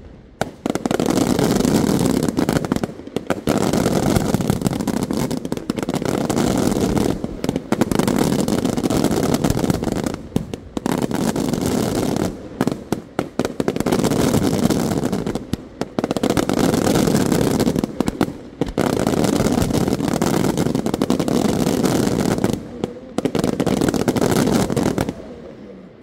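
Aerial fireworks display: a dense, near-continuous barrage of shell bursts and launches, loud, broken by short lulls every few seconds, dying down near the end.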